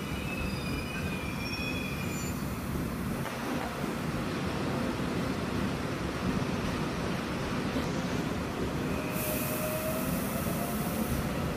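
Electric multiple-unit train rolling slowly along a station platform: a steady rumble, with high wheel squeal on the rails in the first two seconds. About nine seconds in there is a burst of hissing lasting roughly two seconds, with another squeal.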